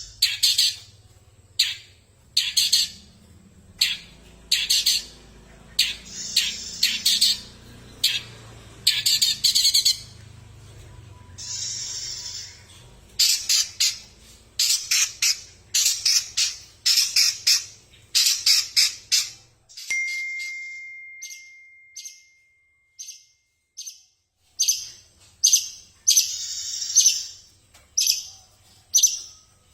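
Long-tailed shrike (cendet) giving harsh, rapid chattering calls in repeated bursts of about a second each. About two-thirds of the way through comes one long, steady whistled note, followed by short clipped calls before the chattering bursts return.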